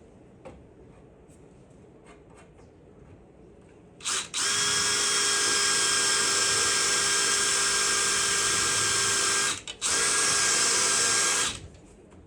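Electric drill with a dull bit drilling into a thick metal floor patch plate. A short trigger blip comes about four seconds in, then the motor runs with a steady whine for about five seconds, stops briefly, and runs again for about two seconds before stopping.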